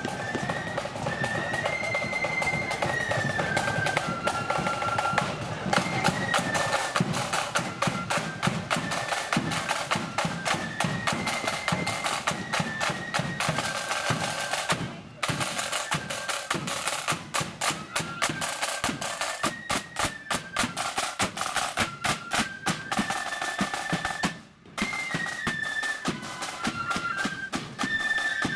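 Marching flute band playing a tune: flutes carry the stepping melody over fast, rattling snare drums and bass drum. The sound cuts out briefly twice.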